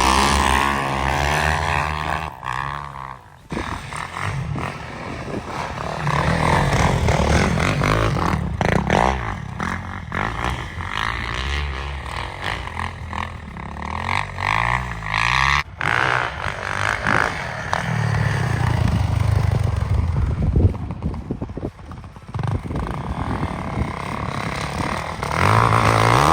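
Dirt bike engines revving up and down as the bikes ride, in several short clips that cut off abruptly about three seconds in and again around the middle.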